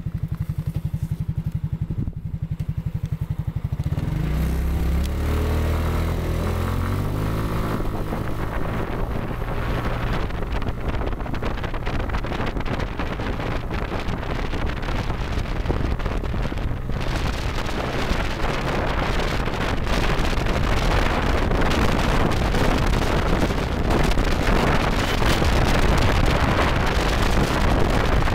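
Kymco 250cc four-stroke engine of a PGO Bugrider buggy idling with an even pulse, then revving up about four seconds in as the CVT takes it away, its pitch climbing. It then runs steadily under way, with wind and road noise building.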